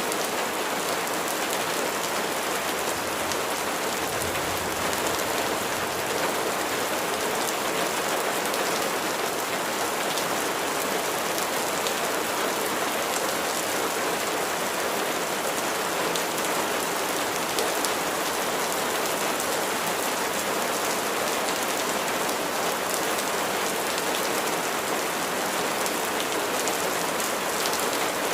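Steady rainfall, a dense even hiss of rain with many fine drops pattering on surfaces.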